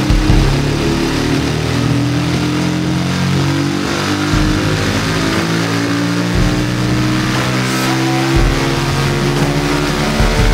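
Bajaj Rouser 220's single-cylinder four-stroke engine accelerating under load on a rolling-road dynamometer, breathing through an aftermarket exhaust, its revs climbing steadily from under 4,000 to over 8,000 rpm.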